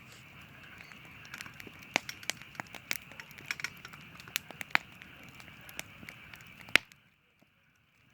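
Campfire crackling, with irregular sharp pops over a steady hiss. The loudest pop comes near the end, and the sound then cuts out abruptly to near silence for about a second.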